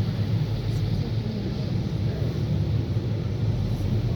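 Steady low rumble of traffic under an even hiss of rain, with no single event standing out.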